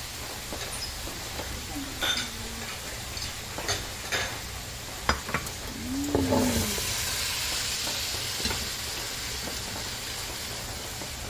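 Prawns in sweet and sour sauce sizzling in a stainless steel wok, with a wooden spatula knocking and scraping against the pan several times in the first half. The sizzle grows louder and steadier about six seconds in.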